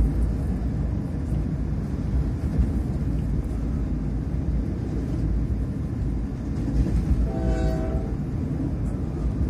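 Passenger train running, heard from inside the carriage: a steady low rumble of the moving train. Near the end a train horn sounds once, a short blast under a second long.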